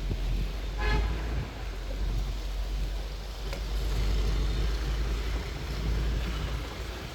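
City street traffic heard from an open-top bus in the rain, with a short vehicle horn toot about a second in, over a steady low wind rumble on the microphone.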